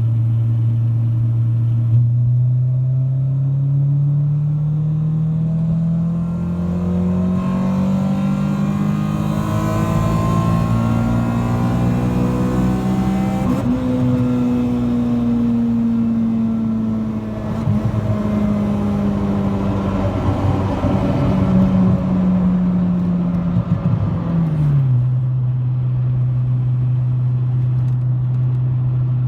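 2000 Honda Civic 1.6 VTEC engine revving up: the engine note climbs slowly for about twelve seconds, eases back down, and drops back to idle speed near the end. When VTEC engages it has a rough fart- or trumpet-like sound, not as clean as it used to be, which the owner takes for a fault.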